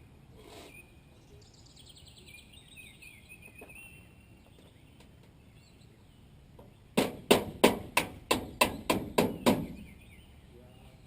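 A bird sings in short high chirps for a couple of seconds. Then comes a quick run of about ten hammer blows, roughly four a second, nailing up aluminum fascia.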